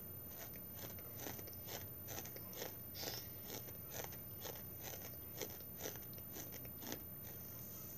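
A person chewing food with the mouth closed, in a steady rhythm of about two chews a second.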